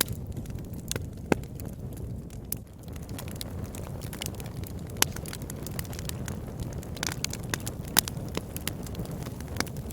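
Fire burning in a fireplace, crackling with scattered sharp pops over a steady low rumble of flames. The loudest pops come about a second in, about halfway through, and about eight seconds in.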